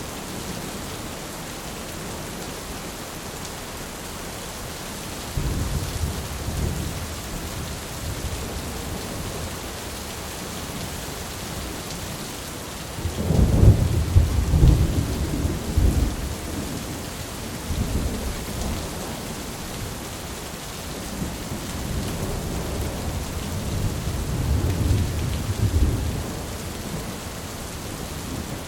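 Steady rain with rolling thunder. A sharp clap about five seconds in, the loudest rumble about halfway through, and a longer roll building near the end.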